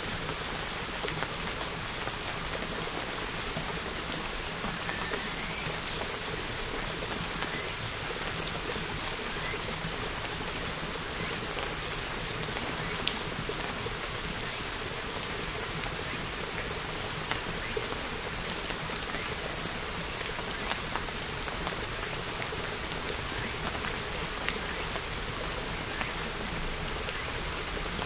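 Steady hiss of rain with scattered faint ticks of drops.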